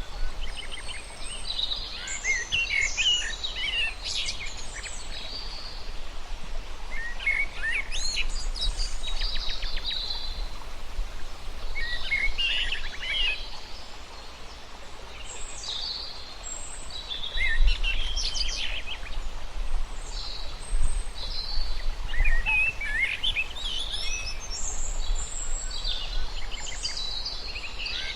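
Several birds chirping and trilling in short, overlapping phrases that recur every few seconds, over a steady low rumble.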